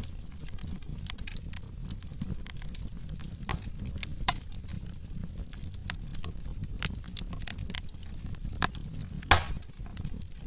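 Log fire in a fireplace crackling, with irregular sharp pops and snaps over a low steady rumble of the flames; one louder pop about nine seconds in.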